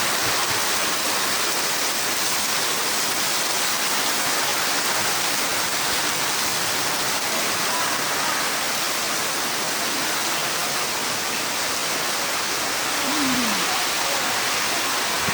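Heavy rain falling steadily in strong wind, a continuous loud hiss.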